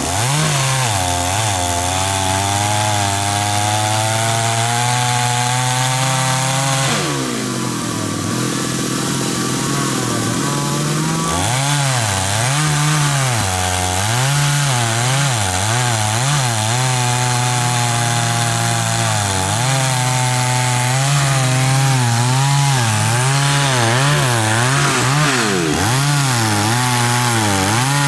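Two-stroke chainsaw cutting through wood of a large khaya tree, its engine pitch wavering up and down as it bogs under load and revs back up. About a quarter of the way in the engine drops lower for a few seconds, then climbs back to full cutting speed.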